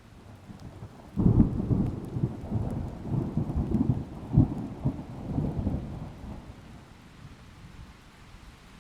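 Thunder rumbling over rain: a roll that starts suddenly about a second in, swells and fluctuates for several seconds, then fades away.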